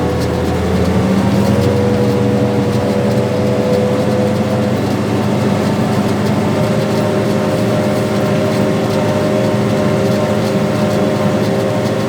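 Farm tractor's diesel engine running steadily under load while pulling a seed planter, its pitch rising slightly in the first second and shifting a little midway.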